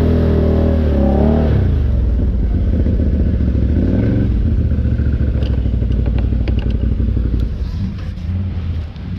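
ATV engine running; its note holds steady, then drops about a second and a half in into a rough low rumble, with a short rev near four seconds. A scatter of light clattering ticks comes through the middle.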